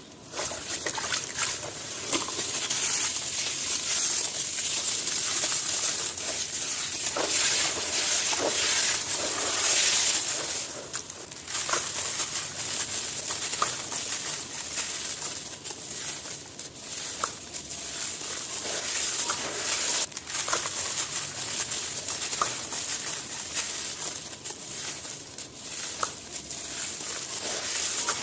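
Brittle chunks crumbled and crushed by hand, close to the microphone: a dense, continuous run of small crackles and crunches that starts abruptly.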